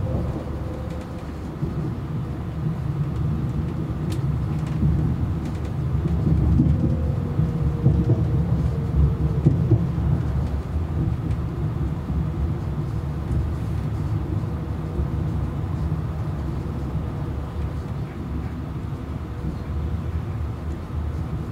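Interior running noise of a Class 390 Pendolino electric train: a steady low rumble of wheels on rails. A faint whine falls in pitch just after the start and again about seven seconds in.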